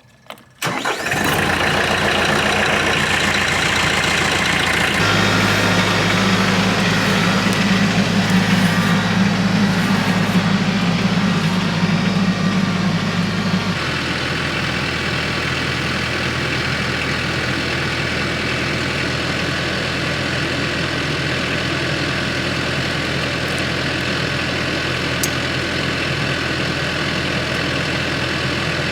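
Tractor engine starting about a second in and running. It picks up speed slightly around five seconds in, then settles back to a steady idle a little before the middle.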